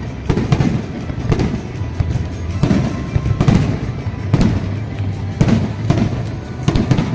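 Fireworks bursting in a rapid series, a fresh bang every half second or so, over background music.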